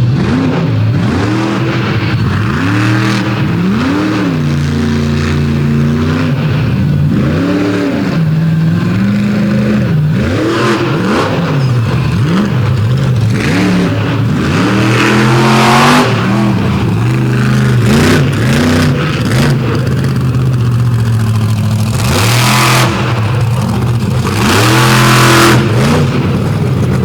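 A monster truck's engine revving up and down over and over, its pitch climbing and dropping again and again with short hissy bursts of noise between them.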